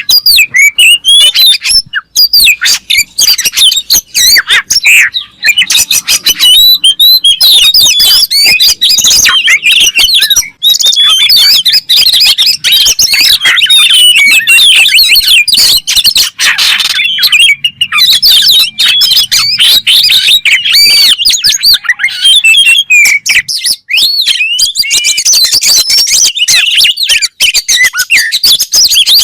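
Oriental magpie-robin (kacer) song: a loud, unbroken stream of rapid, varied whistles and chirps, with notes sliding up and down and following one another with almost no gaps.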